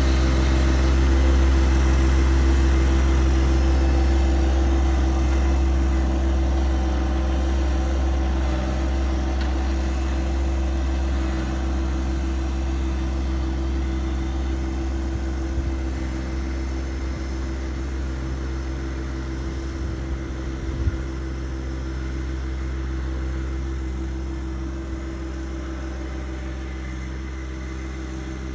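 Tractor engine running steadily at a constant pitch, growing gradually quieter, with one short knock about three quarters of the way through.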